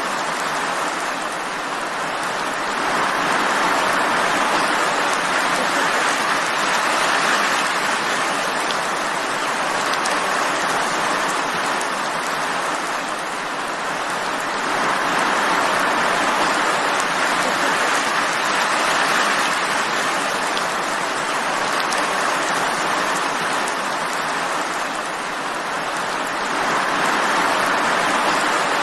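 Steady rain falling, an even hiss that swells and eases in slow waves about every eleven or twelve seconds.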